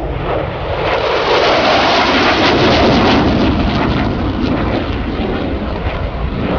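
Jet aircraft passing close by in a loud roar that swells from about a second in, is loudest around two to three seconds, then eases off.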